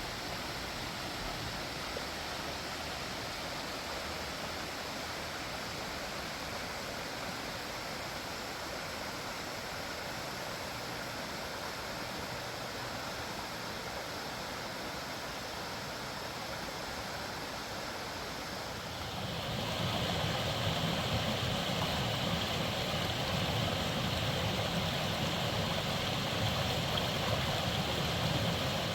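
Creek water running steadily over rocks, a continuous rushing noise. About two-thirds of the way through it becomes louder and fuller.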